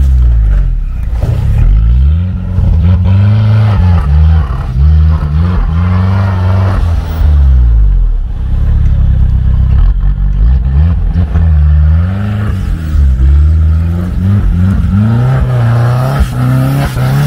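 Niva 4x4's engine revving up and down over and over, with a few seconds of steadier running about halfway through and a rise in pitch near the end.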